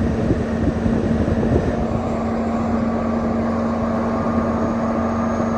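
Steady vehicle running noise: a loud, even rumble with a constant low hum.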